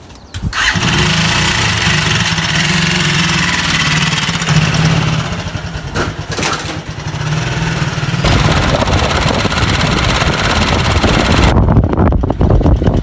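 A small motorcycle engine starts up about half a second in and runs steadily as it is ridden off; in the last second or so a low wind rumble on the microphone takes over.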